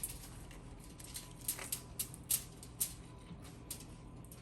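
Close-up eating sounds: biting into and chewing a grinder sandwich with lettuce and cucumber, giving quiet, irregular crisp crunching clicks.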